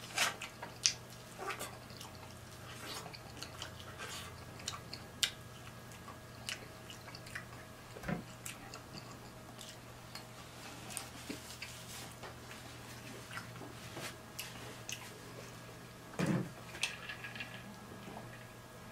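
Close-up eating sounds: irregular wet smacks and clicks of chewing fried fish and shrimp and licking fingers, over a faint steady hum.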